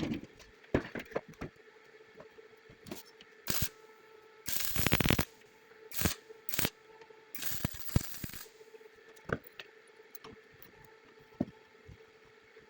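Metalworking handwork: irregular clicks, knocks and scrapes of tools and metal parts being handled. The two loudest are scraping noises about a second long, about five seconds in and near eight seconds. A faint steady hum runs underneath.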